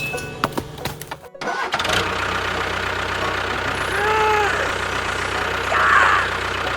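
A few sharp clicks, then an engine starts about two seconds in and keeps running at a steady idle. Partway through, a brief rising-and-falling tone sounds over it.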